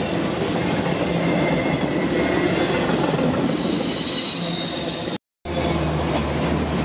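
Freight train of autorack cars rolling past close by: a steady rumble of steel wheels on rail with a faint high wheel squeal. The sound cuts out completely for a moment about five seconds in, then the same rumble resumes.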